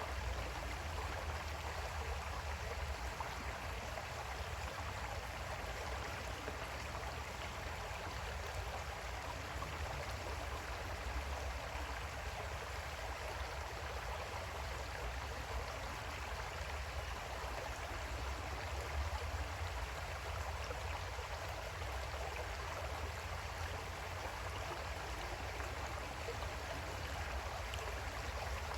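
Water flowing in a small creek: a steady, even rush with a low rumble underneath.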